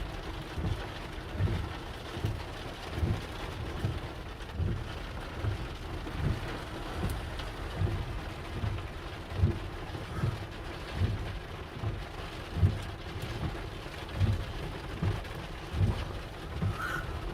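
Steady rain, with a low thump repeating about every 0.8 seconds.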